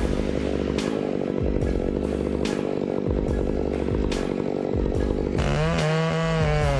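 Two-stroke chainsaw cutting through wood at full throttle. About five seconds in, the engine note comes through clearly and rises and falls as the revs change.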